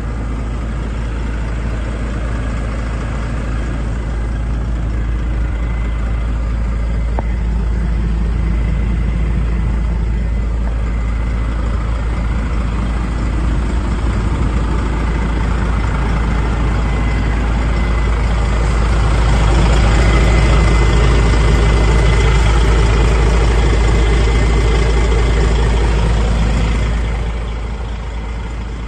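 DAF XF105.460 truck's diesel engine running, a 12.9-litre PACCAR MX straight-six. The sound gradually grows louder, swells further for about eight seconds from around two-thirds in, then falls back near the end.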